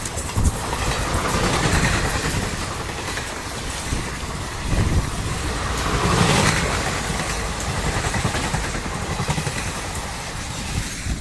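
Diesel-hauled passenger express train passing at speed: a steady rush of wheels on rails with a heavy low rumble and irregular thumps from the wheels.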